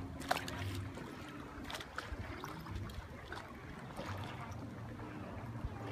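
Water splashing and trickling around a kayak as it drifts, with a few short splashes.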